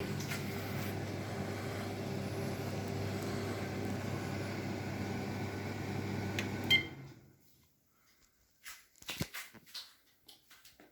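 Whirlpool MCP 345 microwave oven running with a steady hum, stopping about two-thirds of the way through with a short beep. A few faint clicks follow.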